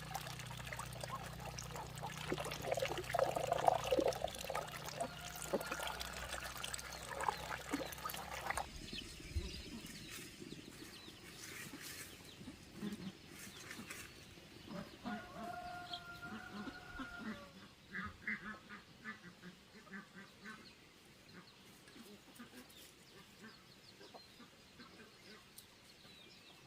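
Ducks quacking, loudest in the first few seconds. The calls thin out to scattered quacks after an abrupt change about nine seconds in.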